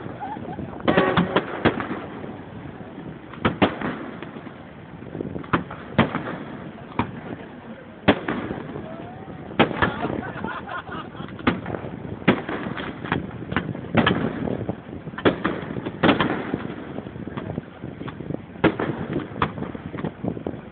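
Fireworks going off: a long irregular series of sharp bangs about every second, some in quick pairs, over a murmur of onlookers' voices.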